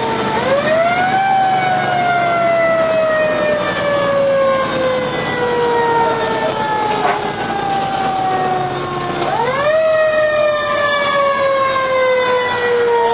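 Fire engine siren sounding on an emergency response, twice winding up quickly in pitch and then sliding slowly down over several seconds, with the truck's running noise underneath.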